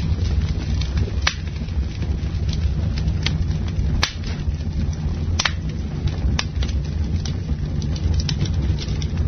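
Campfire burning: a steady low rumble with sharp crackles and pops, a loud one about every second and smaller ticks between.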